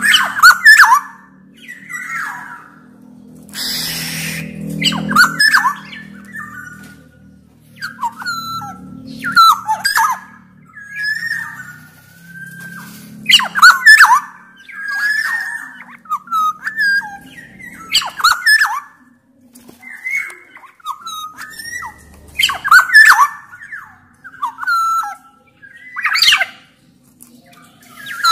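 Black-naped oriole (kepodang emas) singing: short, loud whistled phrases with quick pitch glides, repeated every one to two seconds, with a harsh rasping call about four seconds in.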